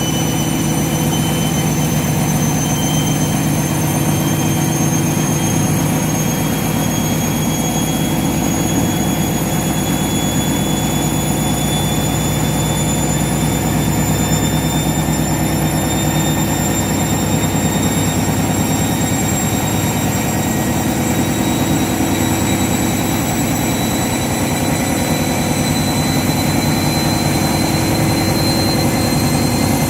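Washing machine spinning: the motor's whine climbs slowly and steadily in pitch as the drum speeds up, over a steady rumble from the drum.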